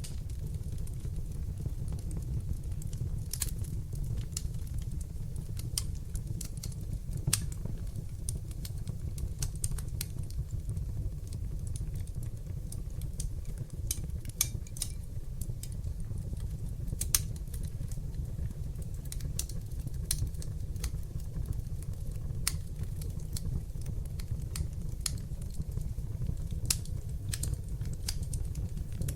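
Wood fire burning in a fireplace: a steady low rumble of flames with scattered sharp crackles and pops, and a few louder snaps now and then.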